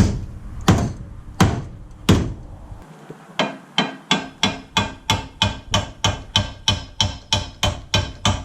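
A hammer striking the crash-crumpled front end of a Nissan 240SX S13 to straighten it. Four hard blows come about 0.7 s apart, then after a short pause a steady run of somewhat lighter blows follows at about three a second.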